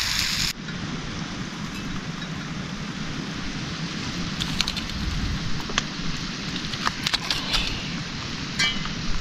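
Steady rain: an even hiss with scattered clicks of drops.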